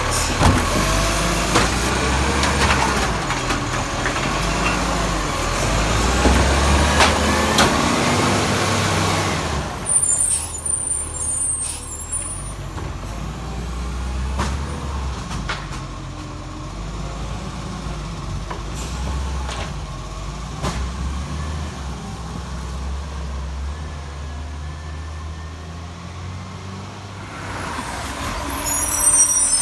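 Garbage truck's diesel engine running and revving, with whining, rising and falling tones for the first ten seconds; sharp knocks follow between about ten and fifteen seconds in, then the engine settles quieter before building up again near the end.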